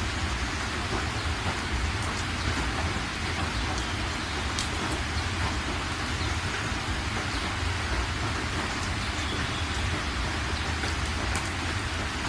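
Steady rain falling, an even hiss with occasional sharper single drop splashes and a low rumble underneath.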